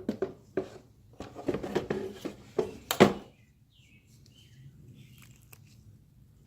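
A quick run of clicks and knocks from a part being handled, the loudest about three seconds in, then quiet with a few faint bird chirps.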